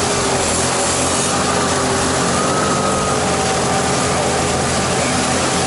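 The raft's outboard motor running steadily, its hum wavering slightly in pitch, under a constant rushing noise.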